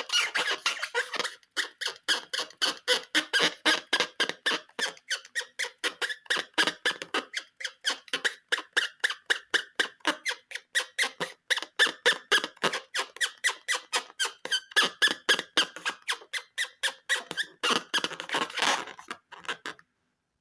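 Rubber balloon squeaking under the hands in a quick, steady rhythm, about four squeaks a second; it stops shortly before the end.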